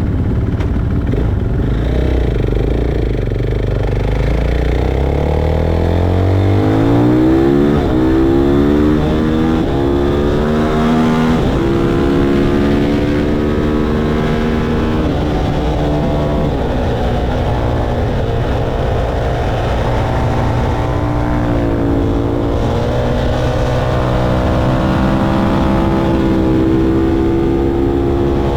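Motorcycle engine accelerating hard, its pitch climbing steeply over a few seconds, then running at fairly steady high revs, with a brief drop and climb again about two-thirds of the way through.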